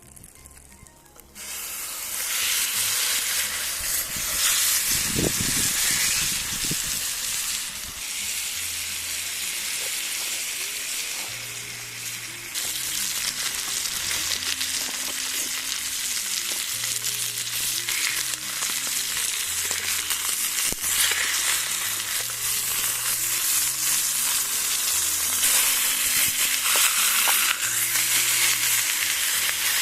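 Meat starts sizzling in a titanium frying pan about a second and a half in, then keeps frying with a dense, loud sizzle and small crackles.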